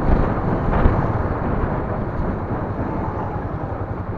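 Steady rumble of a moving vehicle, with road and wind noise picked up by a dash camera's microphone.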